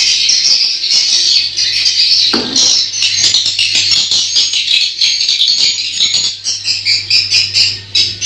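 Dense, continuous high-pitched twittering of swiftlets, with a steady low hum underneath and a single knock about two seconds in.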